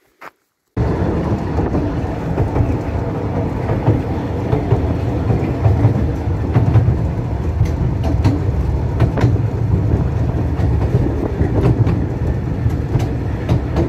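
Narrow-gauge Ffestiniog Railway train running on the track: a steady rumble with irregular sharp clicks from the wheels. It starts abruptly under a second in, after a moment of silence.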